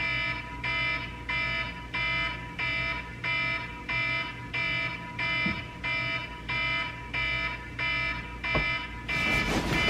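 Wake-up alarm ringing: the same chiming beep repeated evenly, about one and a half times a second.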